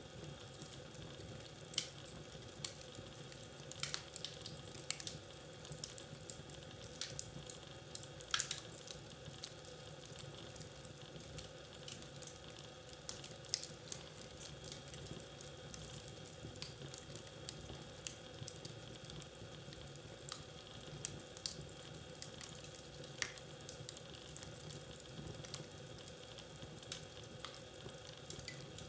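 Wood fire crackling in a fireplace: a steady soft hiss with frequent irregular pops and snaps, a few of them sharper than the rest.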